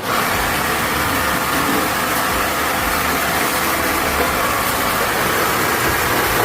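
A machine running steadily with a loud, even whirring hiss that starts abruptly.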